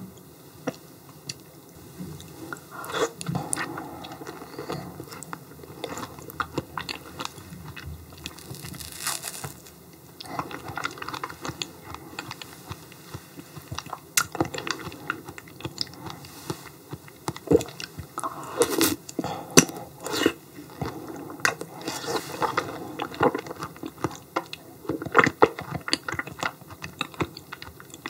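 Close-miked chewing and mouth sounds of someone eating raw yellow stingray liver, with irregular clicks and smacks coming in clusters.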